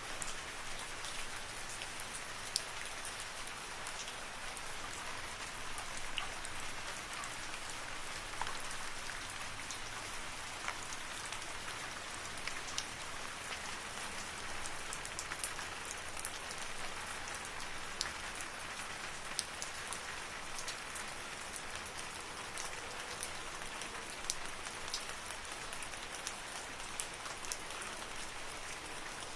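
Steady rain falling in a forest, a constant hiss with many distinct drops ticking on leaves and surfaces.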